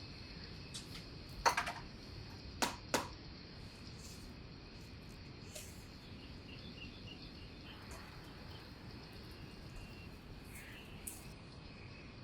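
Quiet outdoor ambience with a few sharp clicks or taps in the first three seconds, and a short series of faint bird chirps about halfway through.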